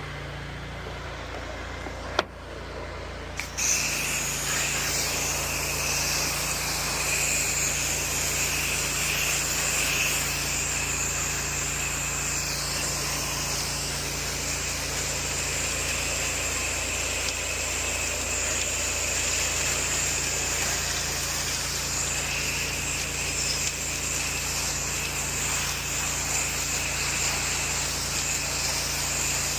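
Pressure washer running with a steady hum, a sharp click about two seconds in, then the spray starts about three and a half seconds in and hisses steadily.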